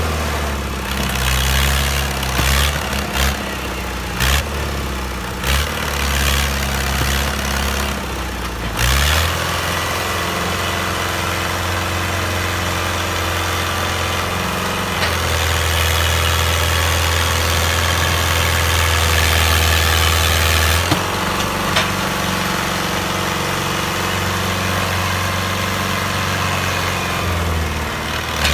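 Tractor engine running, its note shifting several times along the way.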